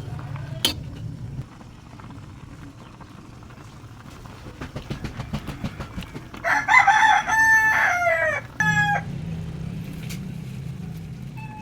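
A rooster crowing once, about six and a half seconds in: a long call in several parts lasting about two and a half seconds. It is preceded by a quick run of ticks.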